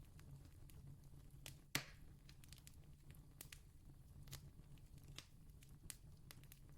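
Faint campfire crackling: a wood fire giving scattered sharp pops and snaps, one much louder pop about two seconds in, over a low steady rumble.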